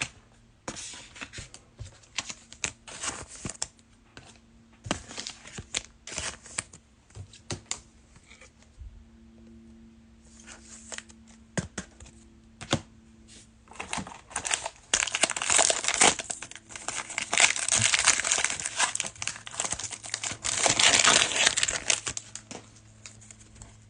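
Trading-card pack wrappers being torn open and crumpled: scattered rustles and clicks through the first half, then dense, loud crinkling for the last eight seconds or so.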